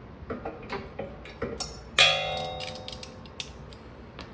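Light metallic clicks of hand tools and parts being handled, then about halfway through a single sharp metal-on-metal clang that rings on and fades over about a second.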